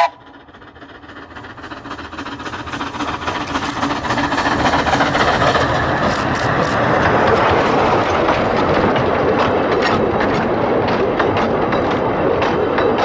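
A narrow-gauge train approaching, its running growing steadily louder over about four seconds, then passing close by at a steady level with rapid clicking of wheels over the rails.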